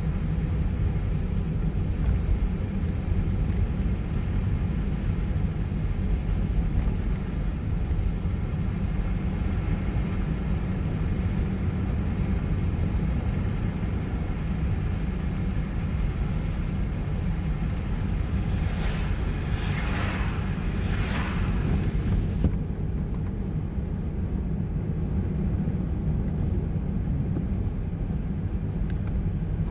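Car driving through a snowstorm, heard from inside: a steady low road and engine rumble, with three short swishes about two-thirds of the way through.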